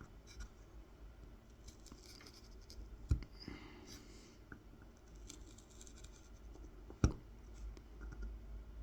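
Tip of a Mora 106 carving knife scoring fine lines into a wooden honey dipper for kolrosing, going over the same line again to cut it deep: faint, fine scratching strokes. Two sharp taps stand out, one about three seconds in and a louder one about seven seconds in.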